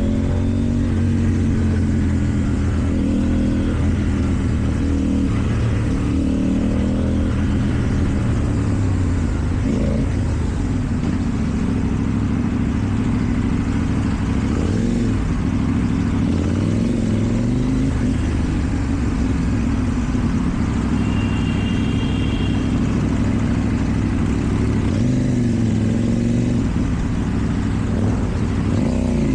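KTM Duke 790 parallel-twin engine through an Akrapovic exhaust, revving up and down again and again as the bike accelerates and slows.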